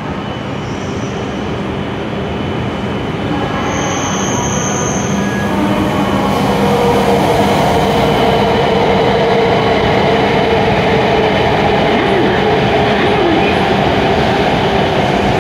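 W7 series Shinkansen train pulling into the platform. Its running noise grows over the first several seconds as the cars come alongside, then holds steady as they roll past.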